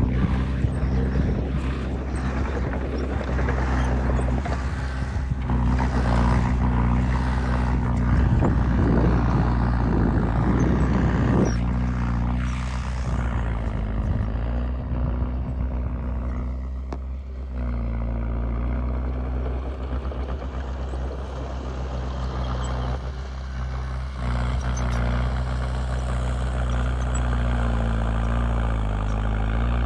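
Heavy diesel engine of earthmoving machinery running steadily with a low drone. For roughly the first twelve seconds a rougher, noisier rumble lies over it, then it settles back to the engine alone.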